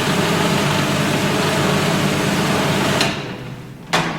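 Electric food processor running steadily as it grinds seeds, dates and oats into a sticky crust dough, then switched off about three seconds in and spinning down. A single sharp knock follows near the end.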